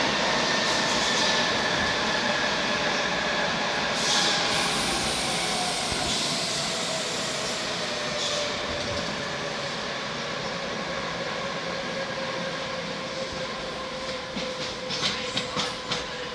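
Madrid Metro Series 5000 train running, its motor whine slowly falling in pitch as it slows down. Clicks of the wheels over rail joints come near the end.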